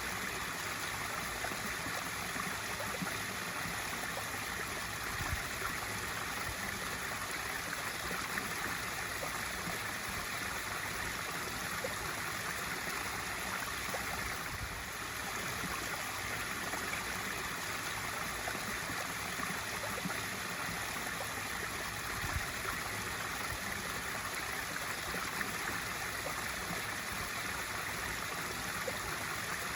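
Swimming pool waterfall feature splashing steadily into the pool, a continuous rushing of falling water.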